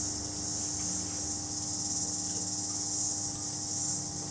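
The washing machine's electric motor hums steadily while it overheats on its way to burnout. Over it runs a louder, high-pitched chirring hiss that swells and fades about once a second.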